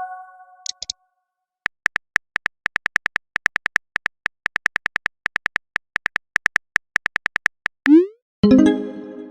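Electronic phone-keyboard typing clicks, short ticks at about four to five a second for several seconds, as a message is typed out. Near the end a quick rising swoop and then a ringing chime, a message send and notification sound.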